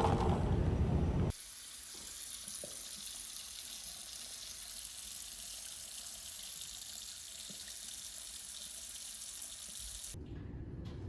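Steady hiss of running water, like a tap running into a sink. It comes in abruptly about a second in, after a louder sound, and gives way to a different sound near the end.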